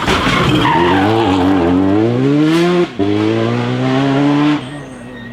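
Rally car engine at full throttle, pitch climbing, a quick upshift about three seconds in, then climbing again. About four and a half seconds in the sound drops away.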